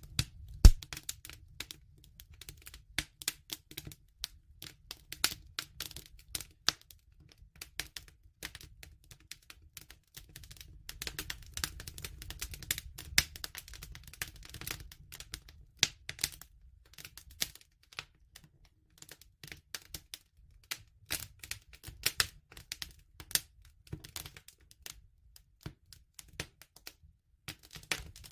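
Wood fire crackling and popping irregularly over a low rumble, with one sharp loud pop just under a second in.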